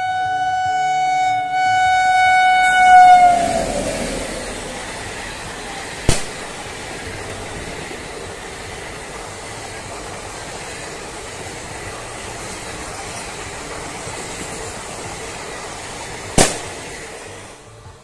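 Indian Railways electric locomotive sounding a long horn as it approaches, the pitch dropping as it passes about three seconds in. Then the steady noise of its coaches rolling by at speed, with two sharp clacks about six and sixteen seconds in, fading near the end.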